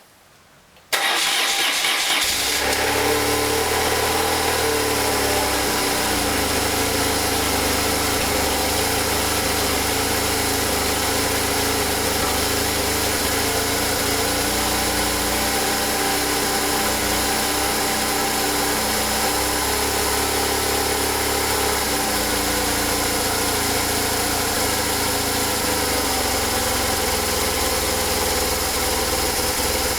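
BMW R1100 flat-twin boxer motorcycle engine cranking briefly, catching about two seconds in, then idling steadily. It is the first start after a month standing unused.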